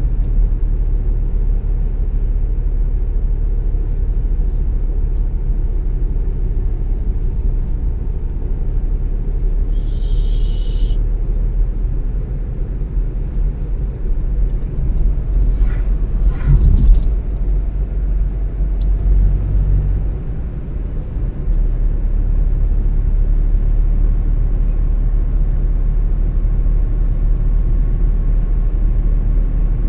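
Car driving, a steady low rumble of road and engine noise. A short high hiss comes about ten seconds in, and the rumble swells briefly louder a few seconds later.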